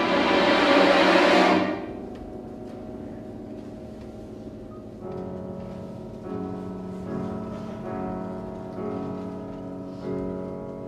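Live classical music for piano and string orchestra. A loud, full chord cuts off about one and a half seconds in, and a quiet held passage follows. From about halfway, a slow series of soft piano chords begins.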